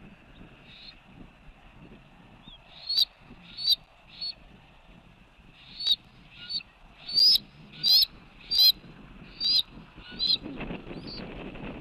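Bald eagle calling: a series of about ten short, high-pitched chirping calls, unevenly spaced, the loudest in the middle of the series.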